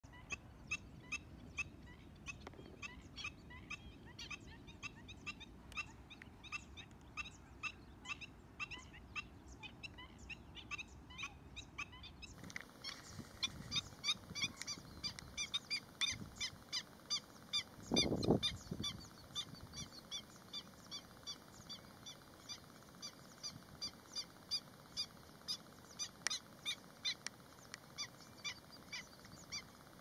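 A bird repeatedly giving short, sharp calls, about two a second, with one louder, lower call about 18 seconds in.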